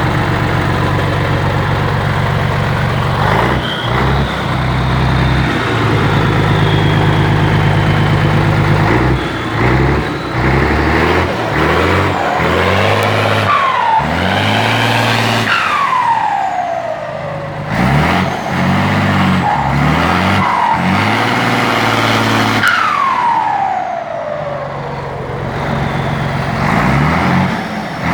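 Scania 112 bus turbodiesel being revved and let back down again and again, with a turbo whistle from a comb fitted in the turbocharger intake. A high whistle rides over the first revs, and from about halfway each drop in revs brings a whistle that slides down in pitch, four times.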